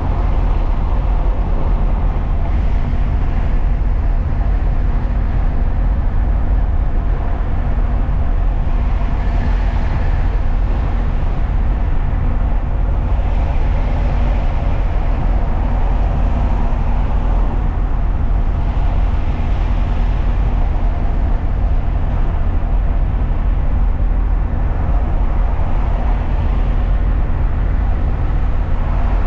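Steady road and engine noise of a truck driving along, a loud even rumble with a faint constant hum, as picked up by a dashcam microphone.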